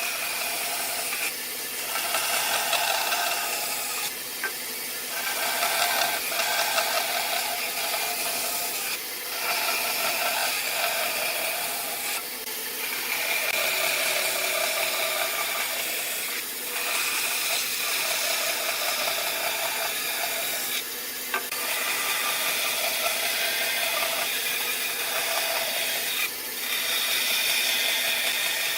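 A power tool working wood, running in stretches of a few seconds with short breaks between passes.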